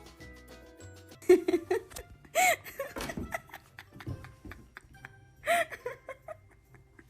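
Background music with three loud bursts of laughter over it, short and high-pitched.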